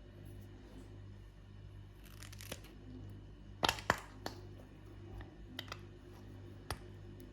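A toy being cut and torn open: irregular sharp snips and short crackles, the loudest a close pair a little past halfway, over a low steady hum.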